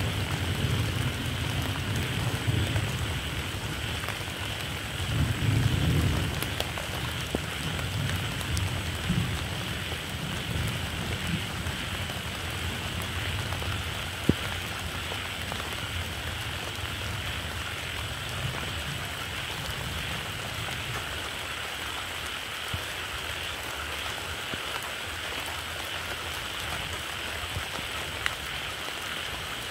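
Steady rain falling, with a low rumble of thunder that swells once in the first few seconds and then dies away, leaving only the rain.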